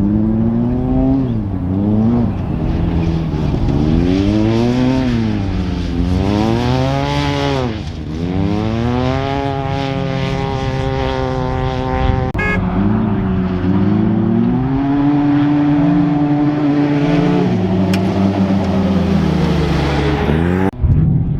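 Off-road race vehicle's engine running hard under throttle, its pitch rising and falling again and again, then one long climb that drops off sharply about twelve seconds in before running steadier.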